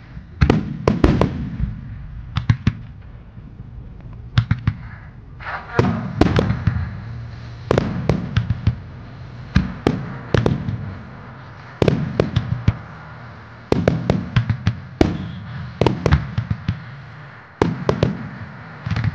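Wide starmine fireworks display: volleys of shells bursting in quick clusters of sharp bangs, a new volley about every two seconds, over music playing underneath.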